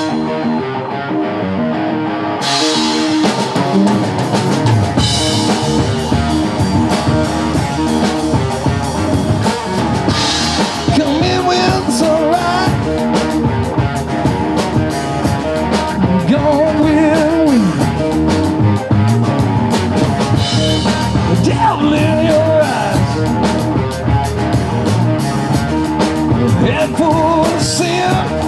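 Live rock band playing at full volume: drum kit, bass and electric guitar, with a lead line of bent, wavering notes over the beat.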